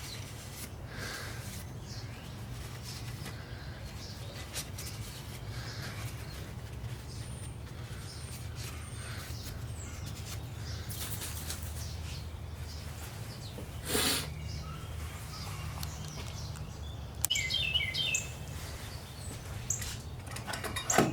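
Steady low hum with faint rustling, and a short swish about 14 seconds in; from about three-quarters through, a bird chirps in quick repeated notes.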